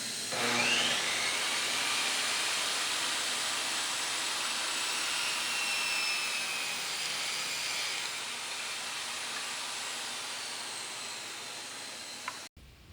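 An electric power tool's motor spins up with a brief rising whine and runs steadily with a continuous rushing noise, then stops suddenly shortly before the end.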